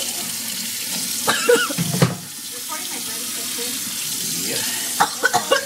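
A tap running steadily into a sink, a constant rushing hiss, with short bursts of voice over it a little over a second in and again near the end.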